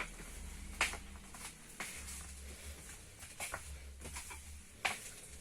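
Quiet bus-cabin room tone: a steady low hum with a few sharp clicks and taps scattered through it.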